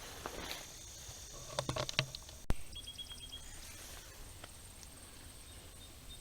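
Steady high insect drone, with a handful of light knocks and clicks around two seconds in, the loudest a single sharp click.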